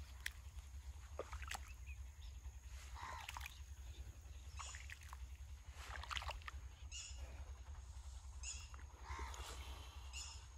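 Birds calling over open farmland: short high calls repeated every second or two, with a few lower arched calls. A few short clicks and a steady low rumble run underneath.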